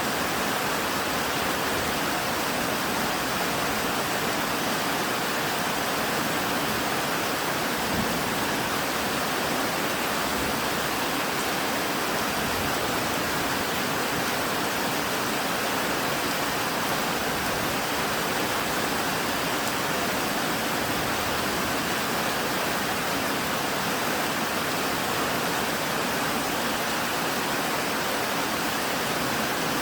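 Steady rain falling, an even hiss with no let-up, with one small knock about eight seconds in.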